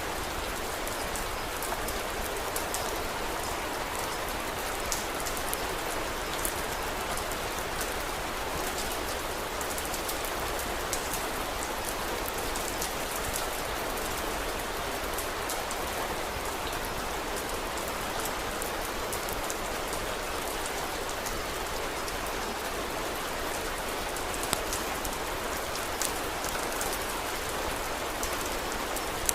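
Steady rain falling on a surface. Scattered sharp crackles from a wood fire sound through it.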